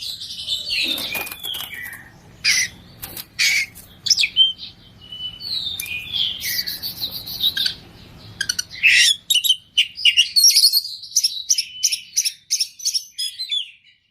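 Oriental magpie-robin (kacer) singing hard: a fast, varied string of whistles, harsh notes and sharp chips, packed with mimicked calls of other birds. Near the end the notes come in quicker, denser runs.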